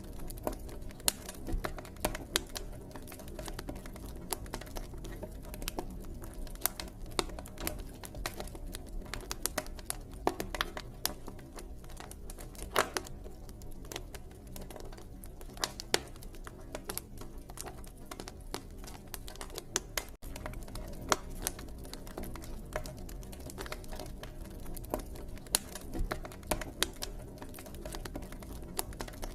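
Wood campfire crackling, with irregular sharp pops and snaps several times a second over a low steady rush of the flames.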